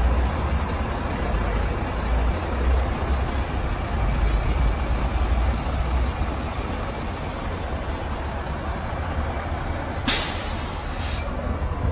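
Motor vehicle on the move: steady engine and road rumble, with a short burst of hiss about ten seconds in.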